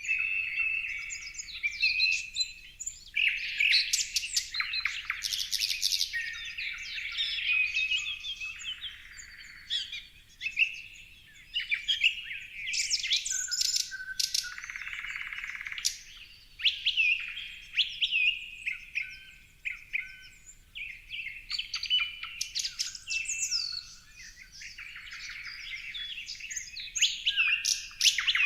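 A chorus of several songbirds singing and calling at once: a busy, unbroken mix of chirps, whistles and rapid trills.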